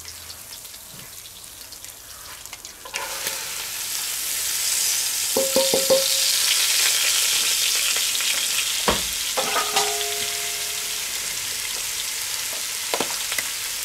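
Diced carrots and other vegetables tipped into hot fat in a cast-iron Dutch oven: a loud sizzle starts about three seconds in and settles into a steady frying hiss. A few metal clinks and a knock sound over the sizzle.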